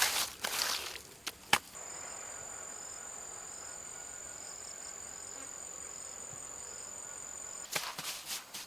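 An insect calling in one steady high-pitched tone that starts and cuts off abruptly. Louder brief rustling and scraping noises come at the start and again near the end.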